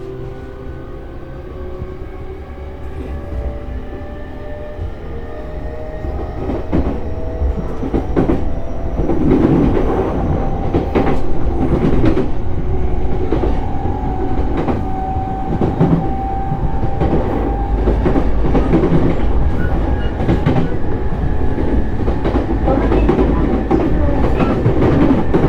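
E233-series electric train running and picking up speed. The traction inverter and motor whine climbs steadily in pitch as it accelerates, over the rumble of the wheels, with repeated clacks of the wheels over rail joints.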